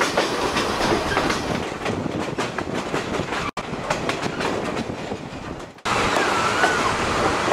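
Chihuahua al Pacífico passenger train running on the rails with a steady rumbling clatter of wheels on track. The sound drops out for an instant about halfway through, then changes abruptly a couple of seconds later.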